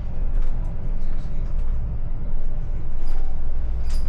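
Steady low rumble of a vehicle on the move, with a few faint clicks near the end.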